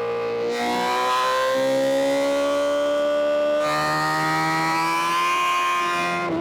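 Inline-four sport motorcycle engine pulling hard under acceleration, its pitch climbing steadily over several seconds, then dropping near the end as it shifts up a gear.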